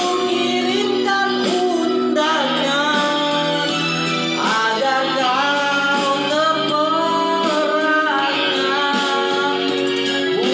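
A woman singing a melody with long held notes over instrumental accompaniment with sustained chords.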